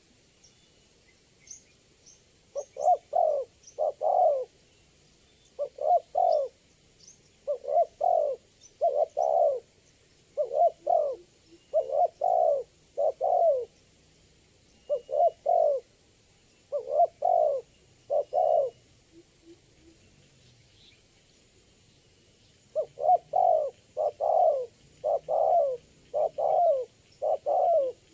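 Spotted dove cooing over and over: short falling coos in quick runs, with a break of about four seconds past the middle. Faint high chirps of small birds are heard in the first few seconds.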